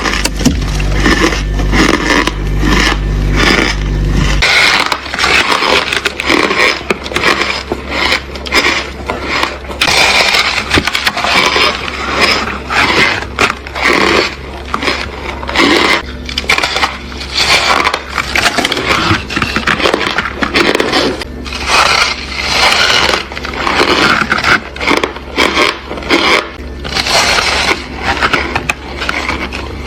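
Ice being bitten and chewed close to the microphone: a long run of crunches, one after another. A low steady hum lies under the first few seconds and stops suddenly.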